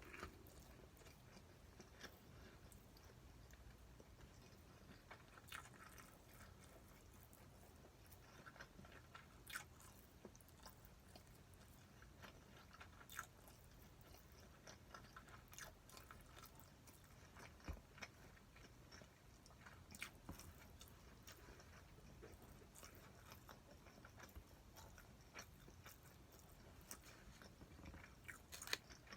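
A person chewing and eating a meal of spicy stir-fried pork (jeyuk-bokkeum): quiet mouth sounds with scattered faint clicks every second or two.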